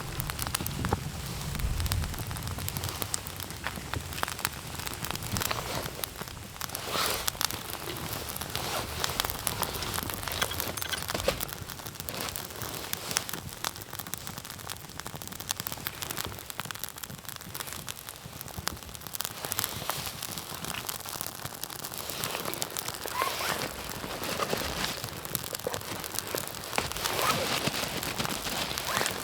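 Campfire crackling and popping: a steady hiss scattered with many small sharp snaps from the burning wood.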